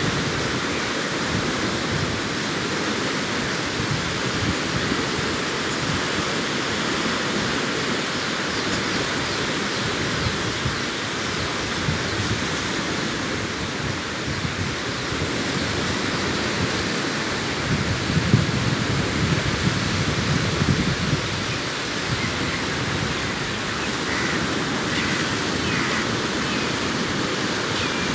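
Sea surf washing onto a beach: a steady rush of breaking waves, with a louder wave breaking about two-thirds of the way through.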